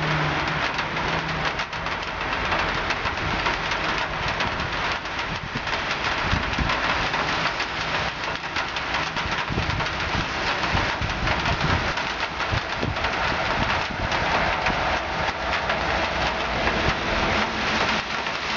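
Steady rain falling, an even hiss throughout, with an uneven low rumble underneath.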